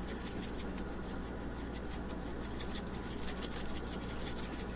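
Dried oregano being sprinkled over raw chicken pieces: a rapid run of faint, dry scratchy ticks over a steady low hum.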